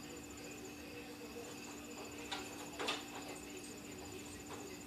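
Crickets chirping in a fast, even, high-pitched trill, over a faint steady hum, with a brief knock about three seconds in.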